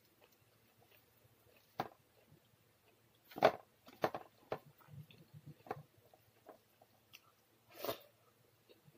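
Close-up eating sounds of a person eating rice and side dishes by hand: chewing and mouth smacks broken by scattered short, sharp clicks and crunches. The loudest comes about three and a half seconds in, and another near the end.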